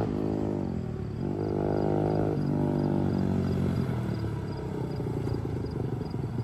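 Small dirt bike's 140 cc single-cylinder engine revving and falling back. The pitch drops, rises and holds for about a second, drops again, then settles to a lower, uneven running note for the last few seconds.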